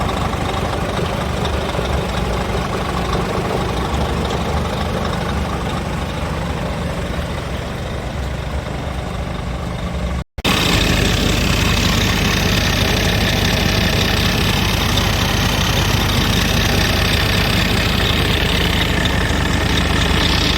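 2011 Scania R tractor unit's diesel engine idling steadily. The sound drops out for a moment about ten seconds in and comes back louder.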